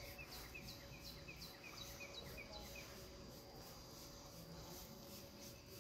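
A bird singing a quick run of about ten short, down-slurred notes, about four a second, that stops a little under three seconds in. A steady thin high tone runs underneath in the faint outdoor background.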